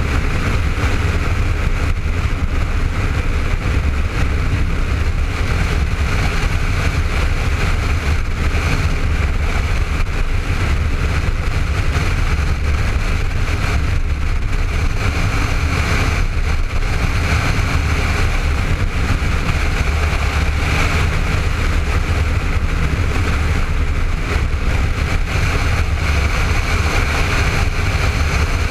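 Honda ST1300's V4 engine running at a steady cruise under a loud, steady rush of wind on the helmet-mounted microphone.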